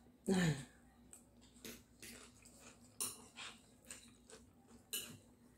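Close-miked eating: chewing, with small, irregular clicks of forks against plates. A short hum that falls in pitch comes just after the start.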